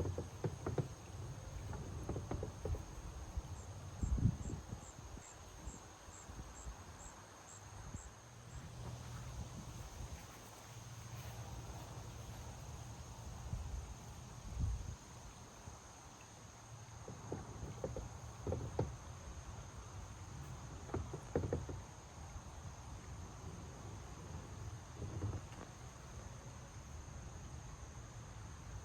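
Insects calling: a steady high-pitched drone, with a run of about ten short chirps, two a second, a few seconds in. Scattered low thumps and bumps come and go underneath.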